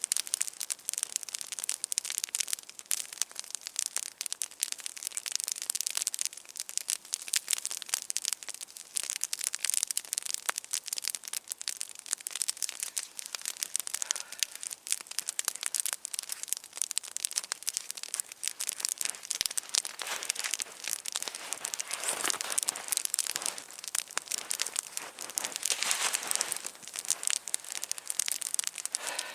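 Wood campfire burning with dense, irregular crackling and popping, and a couple of brief hissing swells near the end.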